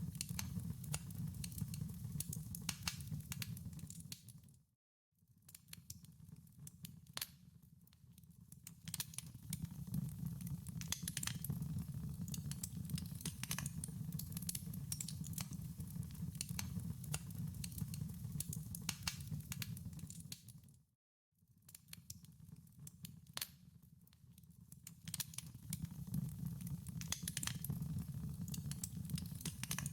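Wood fire crackling in a fireplace: irregular sharp pops and snaps over a low steady rumble. The sound fades out to silence briefly twice, about five seconds in and again about twenty-one seconds in.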